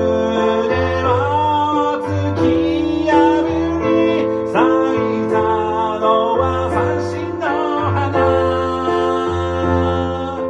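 Electronic keyboard playing an instrumental passage. Held chords and a low bass note sit under a lead melody that slides and wavers in pitch.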